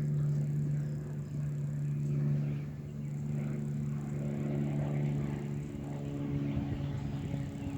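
A steady low mechanical hum, like a motor running at an even speed, with a fainter, higher hum joining about halfway through.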